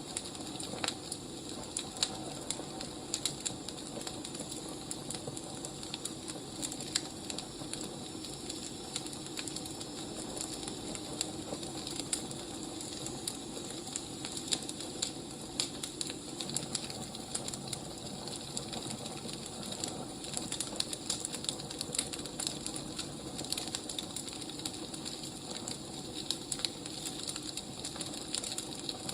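Wood fire crackling: irregular snaps and pops over a steady low hiss.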